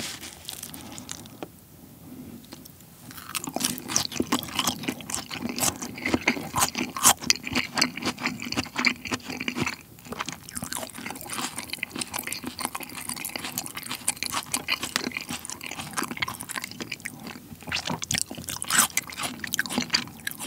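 Close-miked chewing of a mouthful of Korean raw beef tartare (yukhoe): many quick wet clicks and smacks of the mouth, starting about three seconds in.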